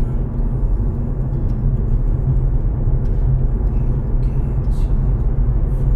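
A steady low rumble with a weaker hiss above it.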